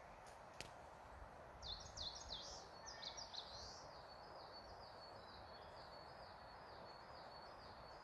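A small songbird singing: a quick jumble of high notes about a second and a half in, then a run of evenly spaced, falling whistled notes, about two and a half a second, over a faint steady hiss.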